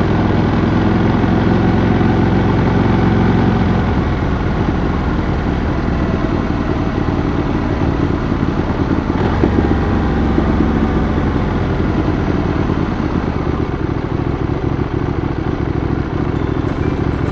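Adventure motorcycle engine running steadily while riding, with road noise.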